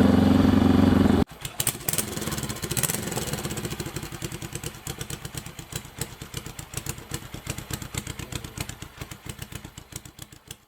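Honda CL72's parallel-twin engine running loudly, then after an abrupt cut about a second in, a quieter, even exhaust beat that fades steadily away to near silence.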